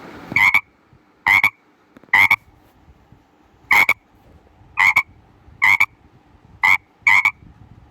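A frog croaking: eight short, separate croaks at uneven intervals.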